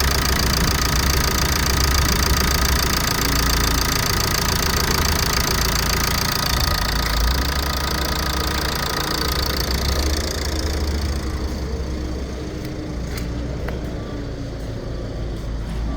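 Ford 1.8 TDCi four-cylinder diesel idling steadily with diesel clatter. Its higher-pitched noise fades away about halfway through, leaving the low engine rumble.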